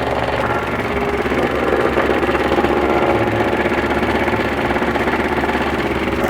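Small petrol engine of a vibratory plate compactor running steadily with a fast, even pulsing, compacting the freshly placed cold-patch asphalt in the pothole.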